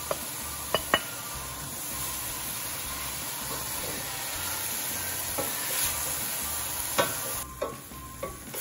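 Baby shrimp and sautéed vegetables sizzling in a stainless-steel skillet while being stirred with a spatula, which knocks sharply against the pan a few times, mostly in the first second and once near the end. The high sizzle quietens near the end.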